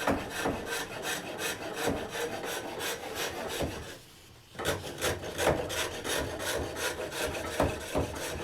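A hook tool cutting a wooden cup spinning on a foot-powered pole lathe: a rasping scrape with repeated knocks as the tool bangs a little on the handle. The cutting stops briefly about four seconds in, then resumes.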